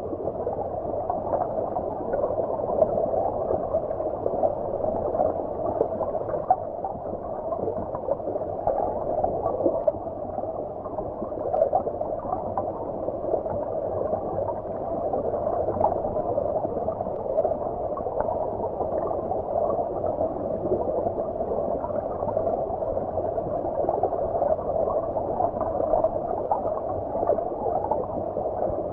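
Stream water heard from underwater: a steady, muffled gurgling rush with faint crackles and no high hiss.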